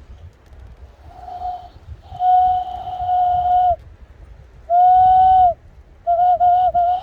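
Cupped-hand whistle blown in its high-pitched form to mimic nearby birds: a faint note about a second in, a long steady note, a shorter louder one, then a wavering note with quick dips near the end, each with a breathy hiss over the tone.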